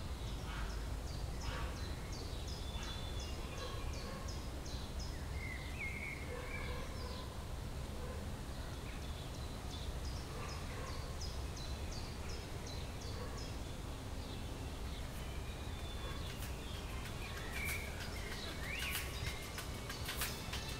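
Outdoor ambience: a steady low rumble with a small songbird singing runs of quick, evenly spaced high chirps, twice, and a few scattered calls. A cluster of sharp clicks comes near the end.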